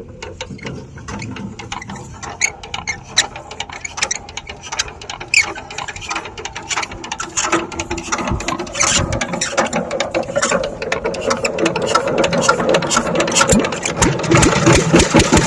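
Power tiller's single-cylinder diesel engine being cranked to start: fast mechanical clicking and rattling that quickens and grows louder, until the engine begins to catch and run near the end.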